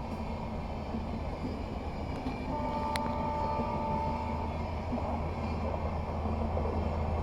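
Electric-hauled passenger train running, a steady low rumble, with a held tone for about two seconds starting about two and a half seconds in and a single sharp click near the middle.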